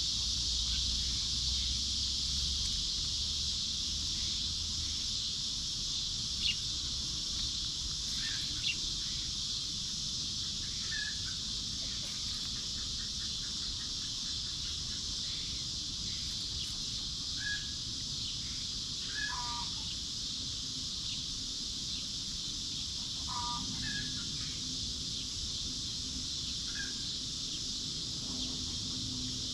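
Orchard ambience: a steady high drone of insects, with scattered short calls from the chickens and birds in the trees, including a brief rapid trill.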